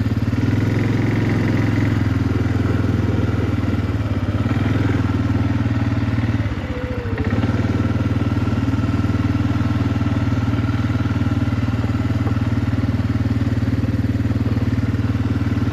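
Engine of a small vehicle running steadily while riding along, with a brief drop in level about six and a half seconds in.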